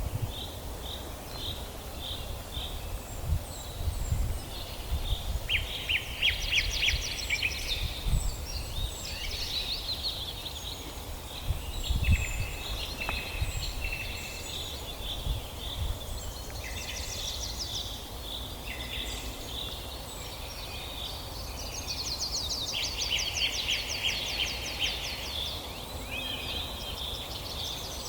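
Several birds chirping and calling back and forth, with fast trills about six seconds in and again past twenty seconds, over a low rumble with a few dull thumps.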